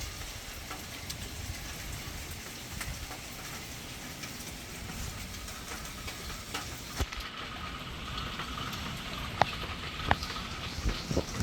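Steady tropical-storm rain falling, with scattered sharp drop hits and a low rumble underneath. A few louder drop strikes come in the last few seconds.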